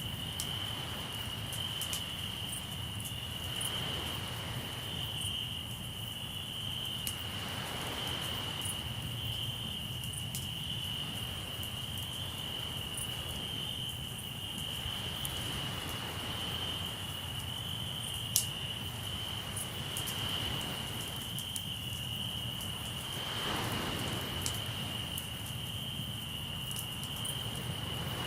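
Crickets trilling steadily over a crackling campfire, with one sharp pop from the fire about two-thirds of the way through. Sea waves wash in now and then, with a low rumble of surf underneath.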